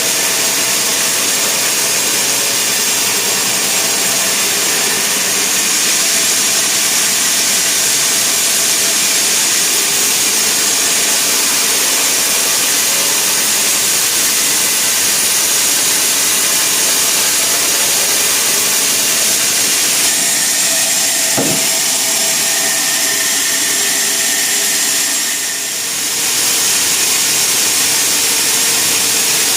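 Sawmill saw and machinery running, a loud, steady noise with a brief drop in level near the end.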